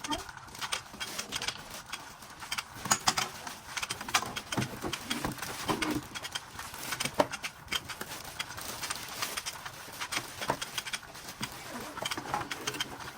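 Irregular rustling, crinkling and clicking of packaging being opened and handled, with many short sharp ticks and knocks.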